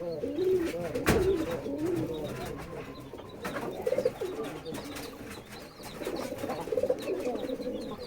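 Domestic pigeons cooing. A quick run of rising-and-falling coos is heard in the first second, followed by a single knock. Short trilling coos come again about four and seven seconds in.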